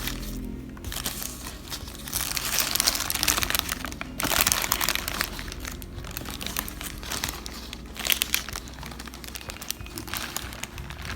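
Wrapping crinkling and rustling in several bursts, the loudest in the first half, over faint background music.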